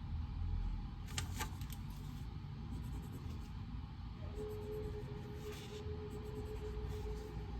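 Reading-room background noise: a steady low rumble, with a few light clicks a little over a second in. About halfway through, a steady mid-pitched tone comes in and holds.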